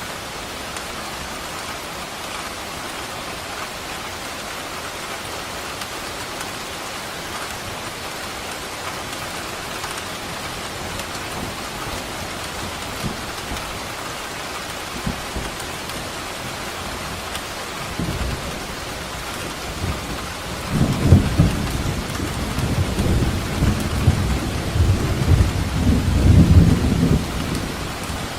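Steady heavy rain hissing, with a rumble of thunder that starts about two-thirds of the way in and swells into a long, louder crackling roll near the end.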